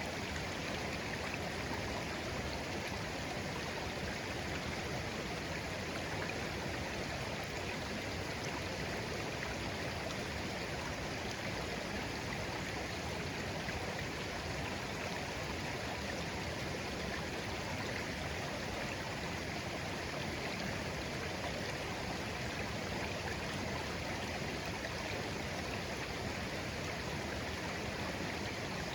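Clear, shallow stream babbling gently and steadily.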